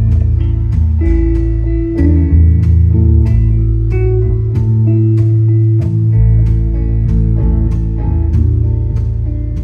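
Live rock band playing an instrumental passage: guitar over deep sustained bass notes, with a steady beat of sharp percussive hits.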